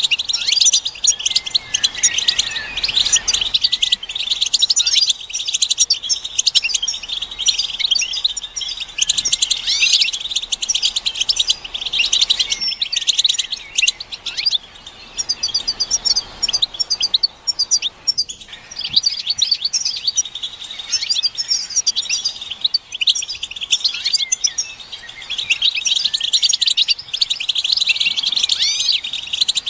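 A group of European goldfinches twittering and chattering, many birds overlapping in a dense, continuous stream of rapid high chirps and quick glides.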